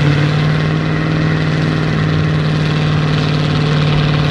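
A car engine held at steady revs, giving one constant pitched drone.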